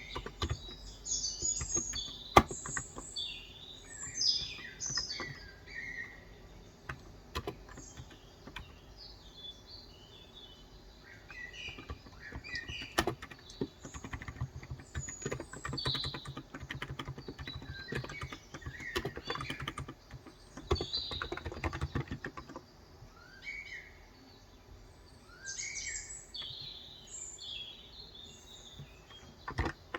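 Small birds chirping and twittering throughout, with scattered keystrokes on a Cox Endeavour electrocapacitive (Topre-style) tenkeyless keyboard with 35 g switches. The typing comes in a few short runs, busiest in the middle, with one sharp louder keystroke early on.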